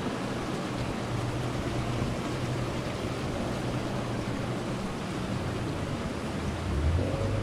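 Steady vehicle travel noise: a low engine hum under an even rushing sound.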